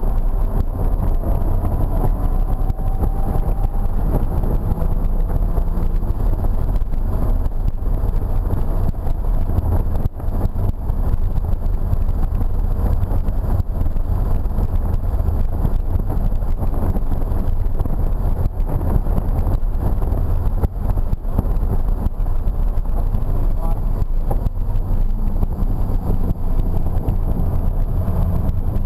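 Cabin sound of a BMW E46 M3's straight-six engine driven hard on track, under a heavy steady rumble of road and wind noise. The engine's pitch rises and falls with throttle and gear changes, most clearly in the first several seconds and again near the end.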